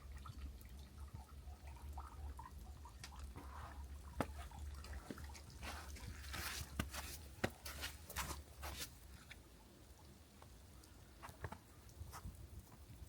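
Wood fire crackling, with scattered small pops and a denser cluster of louder crackles about six to eight seconds in.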